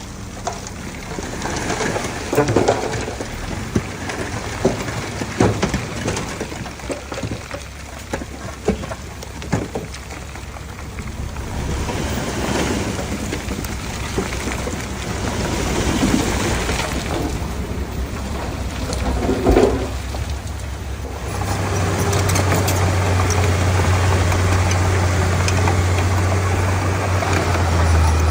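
Bulldozer working soil, with irregular knocks and crackling of earth and track clatter. About three-quarters of the way through, a steady low diesel engine drone comes in and stays, louder than what came before.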